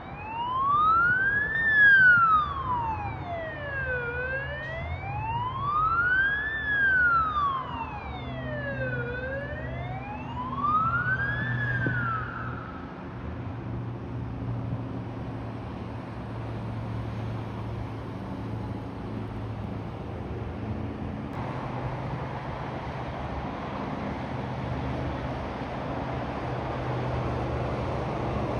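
Emergency vehicle siren on a slow wail, rising and falling about every five seconds, loud over the traffic. It cuts off about twelve seconds in, leaving a steady drone of engines and road traffic.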